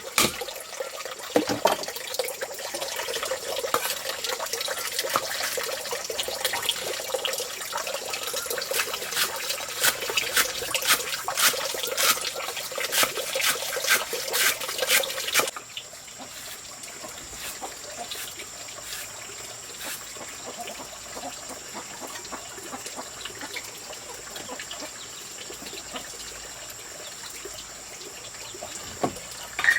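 Water splashing and running, with many sharp splashes. About halfway through it drops suddenly to a quieter, steady trickle.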